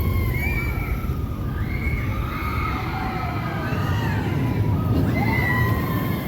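Theme-park crowd: several voices shouting and calling over one another above a steady low rumble of background noise.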